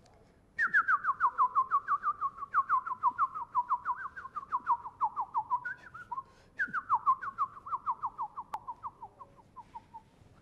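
A songbird singing two long trills of quick, clear, downslurred whistled notes, about five a second, each trill falling gradually in pitch.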